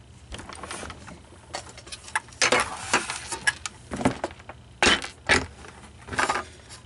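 Small hard parts and tools being handled and rummaged through: irregular clicks, clinks and light knocks.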